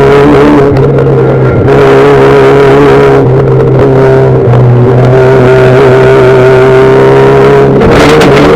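Rallycross car engines held at steady high revs, several engine notes sounding together. Near the end the sound turns rougher and noisier.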